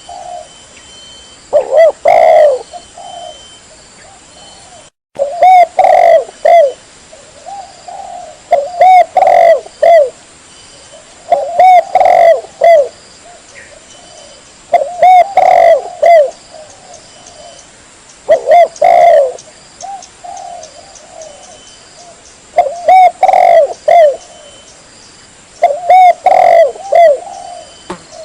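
Spotted dove (tekukur) cooing loudly, a phrase of several coos about every three seconds. The sound cuts out for a moment about five seconds in.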